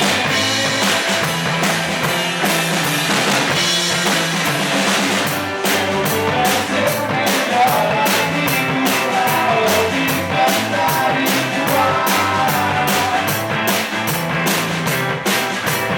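Rock band playing a song live, the drum kit keeping a steady beat under bass and pitched instruments, with the drumming getting busier about a third of the way in.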